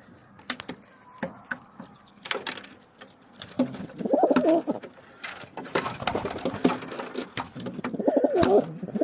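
A bird calling twice, each a short warbling low call, among scattered sharp clicks and taps.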